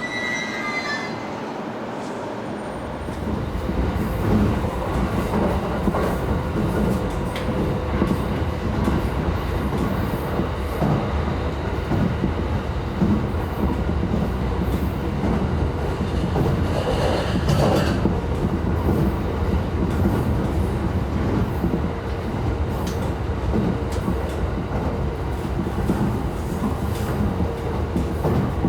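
Electric commuter train running on the rails: a steady rumble that swells about two seconds in, with scattered clicks and knocks from the wheels and track.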